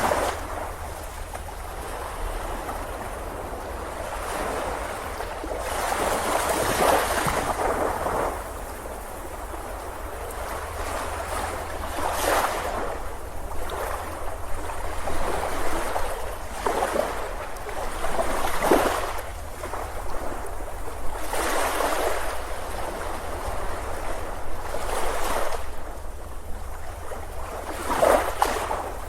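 Ocean waves breaking and washing up a beach, a louder surge of surf every few seconds over a constant wash.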